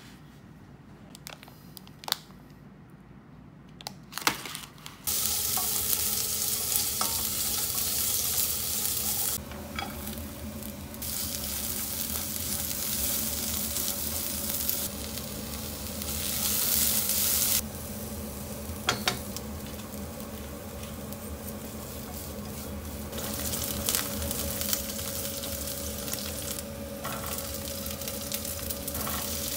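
A few faint clicks for the first few seconds, then julienned vegetables, including carrot, sizzling hard in hot oil in a nonstick pan. They are stirred and tossed with a silicone spatula, and the sizzle swells and eases as they are moved.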